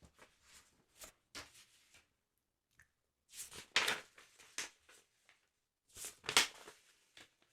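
Paper sticker-album pages handled close to the microphone, rustling and crinkling in a series of short crackles. The loudest come at about four and six and a half seconds in.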